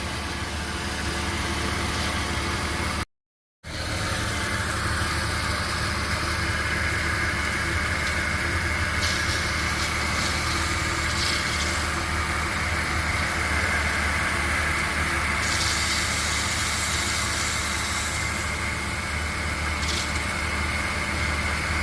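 2000 Porsche Boxster 2.7 flat-six idling, with a steady high-pitched whine from somewhere along the serpentine belt, which the owner suspects comes from the power steering pump or the AC compressor. The sound drops out for about half a second near the start.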